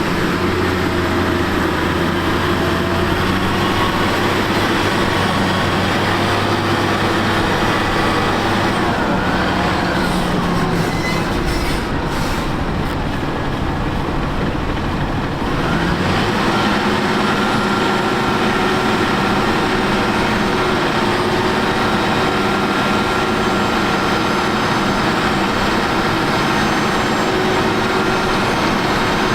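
Tractor engine running steadily. About nine seconds in the note shifts and the deep hum drops away. Near sixteen seconds in it picks up again.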